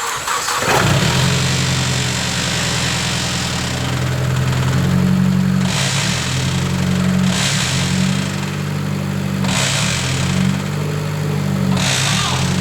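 Car engine starting and running cold with its automatic gearbox in park, making a really weird noise: a steady hum overlaid, from about five seconds in, with recurring hissing surges every couple of seconds. The noise goes away in neutral and later settles, so it is put down to the cold first start in park.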